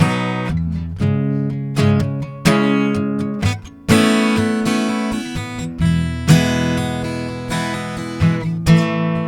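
Acoustic guitar strumming chords, each ringing out before the next, with a brief gap about three and a half seconds in.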